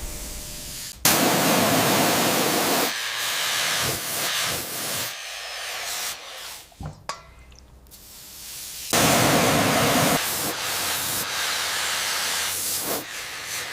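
Pressurised spray hissing in two long bursts, each starting sharply, about a second in and again about nine seconds in.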